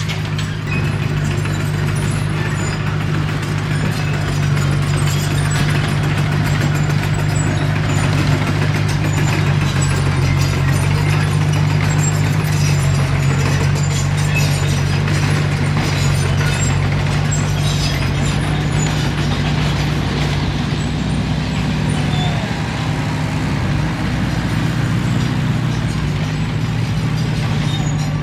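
Komatsu D21P crawler bulldozer's diesel engine running steadily under load while it pushes earth, with faint scattered clicks over the engine noise.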